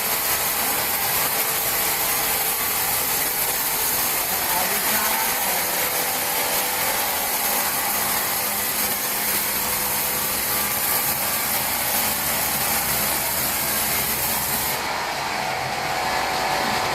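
Large sawmill saw cutting through timber, a steady loud rasping noise; near the end the high hiss drops away.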